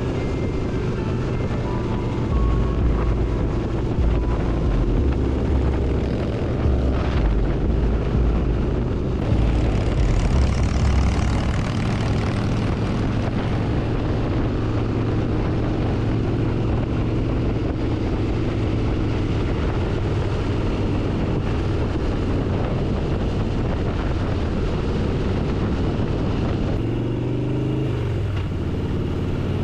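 Motorcycle engine running steadily at road speed, with wind buffeting the microphone most heavily in the first ten seconds. Near the end the engine note shifts and rises.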